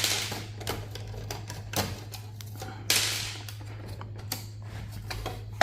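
Small metal clicks and taps from tools working Torx screws out of a server's sheet-metal chassis, with two louder clacks, one at the start and one about three seconds in.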